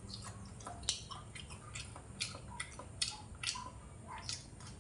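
A person chewing fried pork ribs close to the microphone, mouth open: irregular wet smacks and small crunches, two or three a second.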